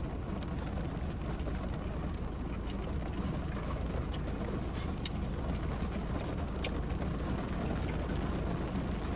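Heavy rain pouring down, a steady hiss with a few faint ticks.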